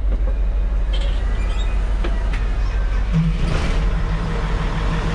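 Nissan CK31L truck's diesel engine running steadily, heard from inside the cab, with a few sharp clicks; about three seconds in, a low pulsing buzz joins the engine.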